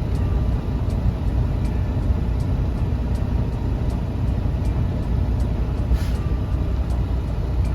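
Semi truck's engine and road noise heard from inside the cab, a steady low rumble, with faint light ticks about twice a second.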